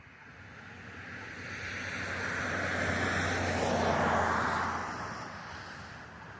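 A car passing by. Its tyre and engine noise swells over about four seconds, peaks with a falling pitch as it goes past, then fades away.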